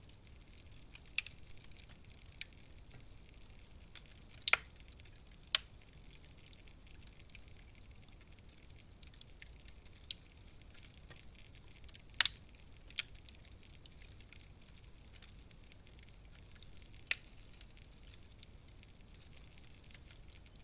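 Wood fire in a fireplace crackling: a low steady hiss with sharp pops at irregular moments, the loudest about four and a half, five and a half and twelve seconds in.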